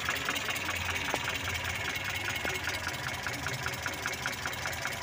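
Mitsubishi Colt T120 four-cylinder petrol engine idling steadily, with a fast, even ticking about six times a second.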